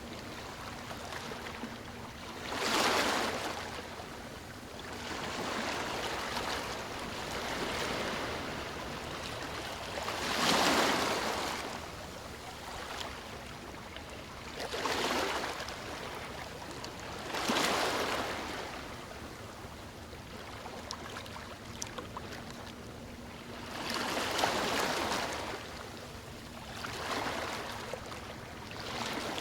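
Sea waves breaking and washing on a shore, one swell of surf every few seconds over a steady wash, with the loudest waves about three and eleven seconds in.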